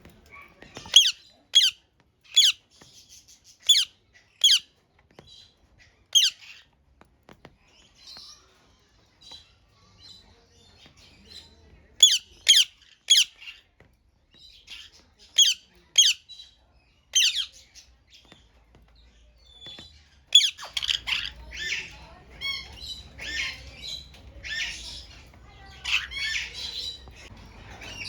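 Parrots squawking: short, sharp, shrill calls in quick series, then from about two-thirds of the way in a denser chatter of overlapping calls.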